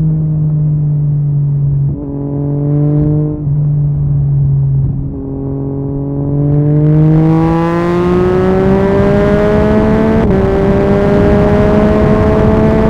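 Yamaha MT-09's three-cylinder engine through an Akrapovic carbon exhaust, ridden at low revs with a few brief breaks in pitch, then pulling with steadily rising revs from about six seconds in while wind noise builds. There is a sharp click and a jump in engine pitch just after ten seconds.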